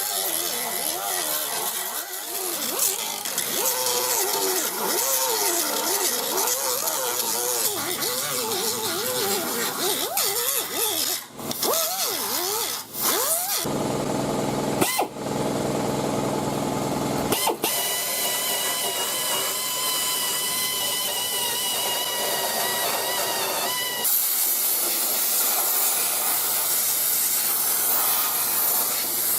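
Power grinders stripping paint and rust from a steel car floor pan, their pitch wavering up and down as the disc is pressed into the metal. Then comes a shorter burst from a lower-pitched tool, and a steady high whine of an air tool. From about twenty-four seconds in, a steady hiss takes over.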